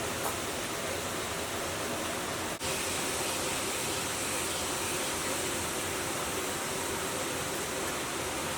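Steady rushing noise with no clear rhythm, dropping out for an instant about two and a half seconds in.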